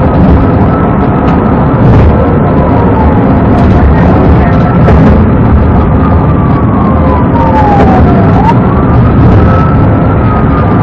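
Police car siren wailing in slow rising and falling sweeps over loud vehicle and road noise, as picked up by a pursuing patrol car's dashcam.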